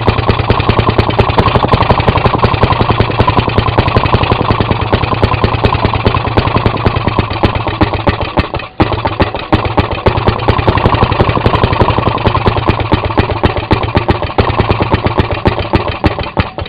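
Maytag Model 92 single-cylinder two-stroke washing-machine engine running, firing rapidly and evenly. It stumbles briefly about halfway through and stops near the end. The owner says the carburetor needs adjusting.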